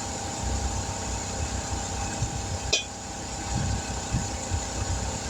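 A vehicle engine idling steadily, with a single sharp click about two and a half seconds in.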